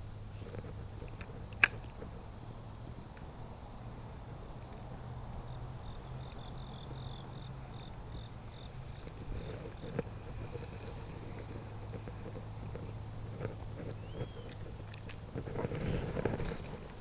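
Outdoor riverside ambience: a steady low hum and hiss, with a run of about eight quick high chirps a third of the way in and a single short chirp later. A sharp click sounds about two seconds in and another just past the middle.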